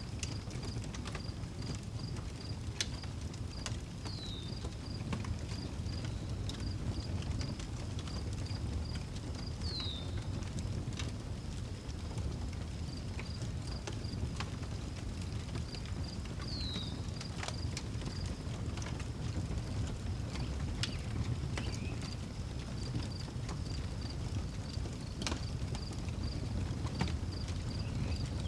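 Outdoor wood fire crackling with scattered sharp pops over a steady low rumble, while crickets chirp in a steady high rhythm. A bird gives a short downward-sliding call three times, about six seconds apart.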